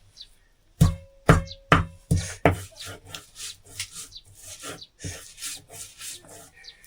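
Five hard knocks about half a second apart, the first few with a brief ringing tone, then a run of lighter, irregular knocking and rubbing.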